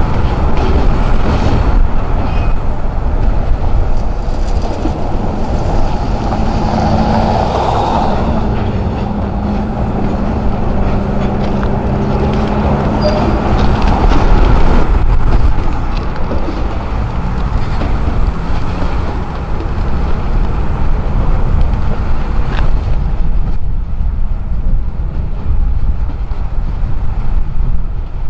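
Freight train passing on the tracks below: a steady, loud rumble of rolling cars on the rails, with the low hum of diesel-electric locomotives.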